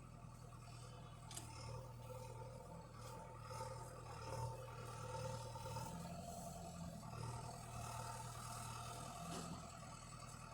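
Tractor engine running steadily at a distance, a low even hum, with a few brief scraping noises.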